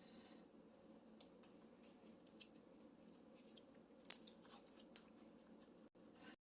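Near silence: faint room hum with scattered small soft clicks.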